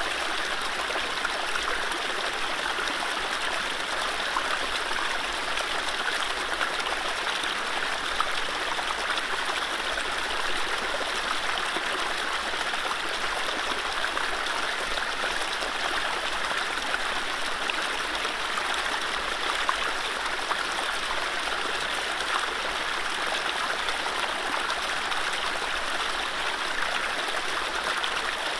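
Mountain stream running over low rapids: a steady rush of water with small splashes and trickles, no birdsong.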